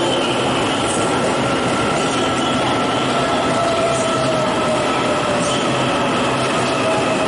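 Taiwan Railways EMU800 electric multiple unit pulling into the station and running past as it slows to a stop: a steady rumble of wheels on rail, with a steady high tone and a lower tone that slowly drops in pitch as the train brakes.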